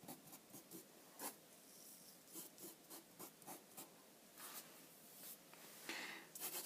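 Faint scratching and rubbing of sand being drawn and pushed around by hand, with a louder swish of sand near the end.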